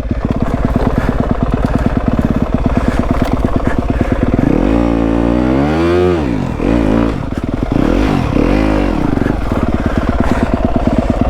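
Yamaha WR250F's single-cylinder four-stroke engine running under throttle, revved up hard and back down once about halfway through, then blipped up three more times before settling. The rear wheel is spinning on a slippery rock, digging a hole instead of climbing out.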